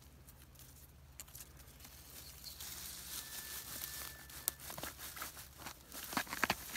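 Rustling and crackling as someone handles plants and picks mushrooms, with scattered snaps and a quick cluster of sharp crackles near the end.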